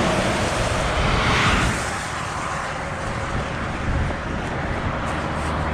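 Fast road traffic passing close by: cars rushing past with tyre and engine noise, one pass swelling and fading about a second and a half in.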